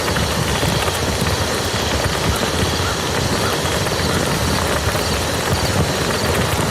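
Steady rain falling on a muddy field, an even hiss of many small drop impacts.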